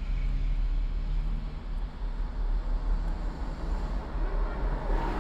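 A car driving on city streets: a steady low engine hum under road and traffic noise, which swells briefly near the end.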